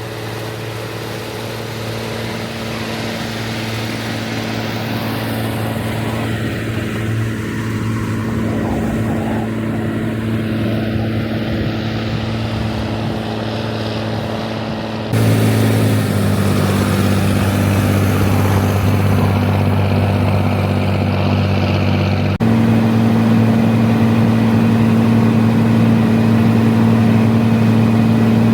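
Rába 250 tractor's diesel engine running steadily, its sound growing gradually louder, then stepping up abruptly in level and tone about halfway through and again near the end.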